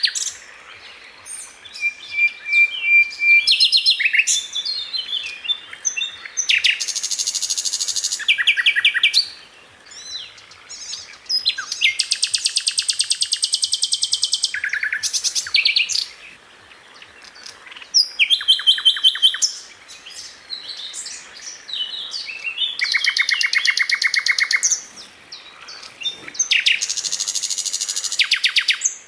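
Sikatan londo flycatcher singing in bursts of a few seconds, each a tight, rapid-fire series of repeated high notes, with short pauses and a few single chirps between.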